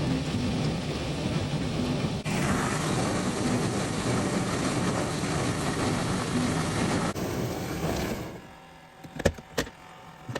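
Portable washing machine running, its motor and churning load making a steady rumbling noise that stops about eight seconds in. A few sharp clicks follow near the end.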